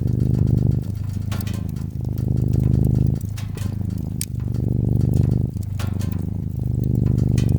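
Domestic cat purring steadily, its low buzz swelling and easing with each in- and out-breath about every second. Scattered sharp crackles and pops from a wood fire sound over it.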